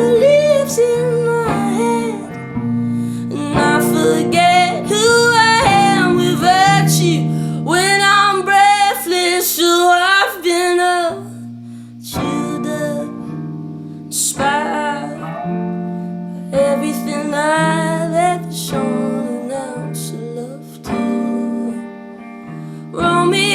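A band playing a song: guitar accompanying a singing voice.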